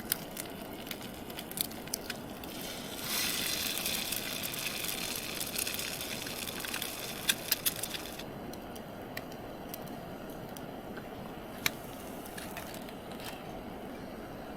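Wood fire crackling in a small solo fire pit, with scattered sharp pops. A louder hissing rush runs from about three to eight seconds in, with a quick cluster of loud pops near its end.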